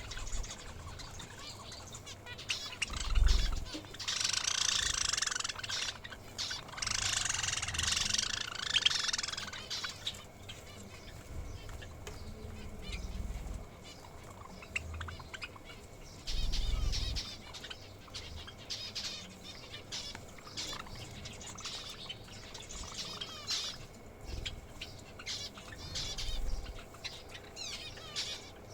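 Small cage birds chirping, with two loud rushes of flapping wings a few seconds in, and a few dull low bumps.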